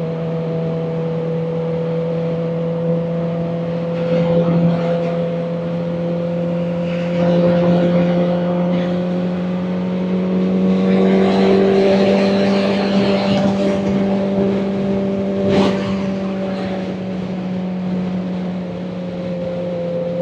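Kawasaki Ninja ZX-4RR's inline-four engine running at a steady pace under way, with wind rushing over the rider's microphone. The wind swells around the middle, and a sharp click comes about three-quarters of the way through.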